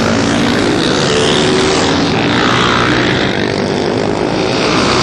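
Single-cylinder Supermono racing motorcycles running hard, loud and continuous, with an engine note that glides down and back up about halfway through.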